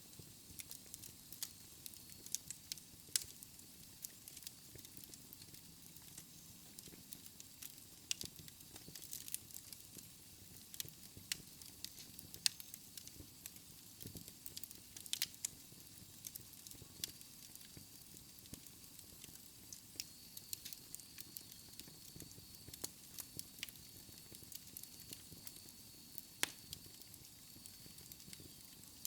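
Wood fire burning in a fireplace: flames with irregular sharp crackles and pops of the burning logs over a soft hiss.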